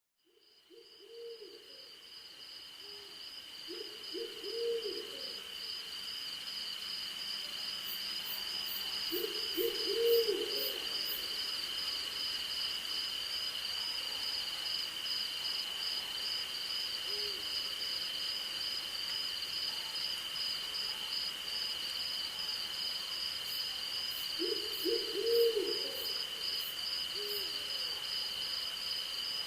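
Night forest ambience: an owl hoots in short clusters of arched calls several times, over steady insect trilling, one unbroken high buzz and a second faster pulsing one. Twice, a quick run of faint very high ticks. The sound fades in over the first few seconds.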